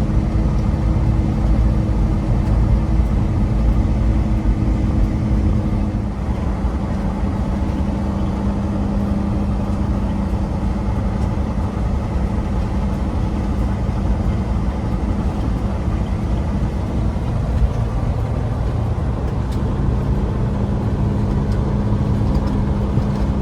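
A John Deere combine harvester running, a steady low engine drone with a constant hum. One higher tone in it drops away about six seconds in.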